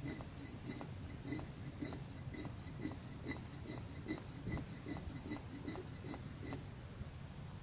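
V6 engine idling while the power steering pump pushes old fluid out through the clear hoses: a steady low hum with a regular pulsing about three times a second.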